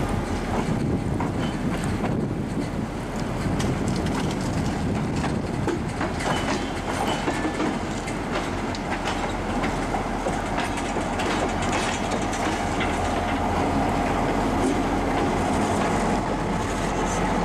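Short diesel freight train rolling slowly past at close range: steel wheels clicking and rumbling on the rails. From about halfway through, a steady hum grows slightly louder as the diesel-electric locomotive comes alongside.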